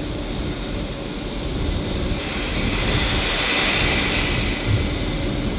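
Passenger train running through the station: a steady rushing noise that swells about two seconds in and eases toward the end.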